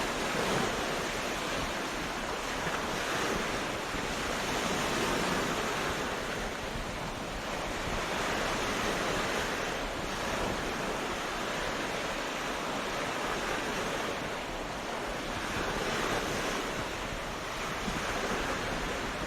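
Ocean waves breaking and washing on a beach, a steady rush of surf that swells and eases every few seconds.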